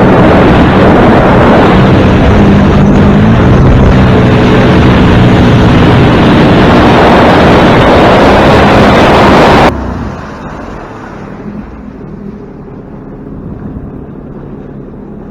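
A watercraft's engine runs hard under way, with heavy wind and water rush. About ten seconds in it drops suddenly to a much quieter, low-speed running.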